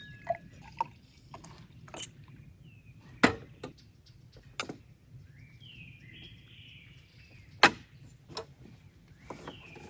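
Scattered sharp clicks and knocks a second or more apart, the loudest about three seconds in and again near eight seconds, from camp tableware and gear being handled, over a low steady background. Faint high chirping comes in about six seconds in.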